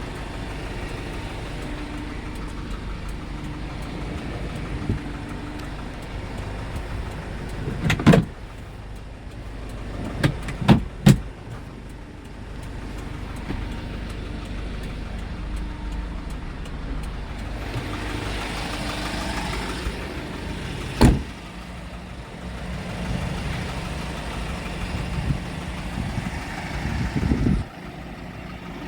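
Kia Bongo 3 diesel truck engine idling steadily. Several sharp thumps cut across it: one about eight seconds in, three in quick succession around ten to eleven seconds, and another about twenty-one seconds in.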